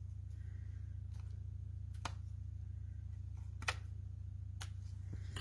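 A few scattered, sharp snips of small scissors trimming the ends of linen thread, the strongest a little past the middle, over a low steady hum.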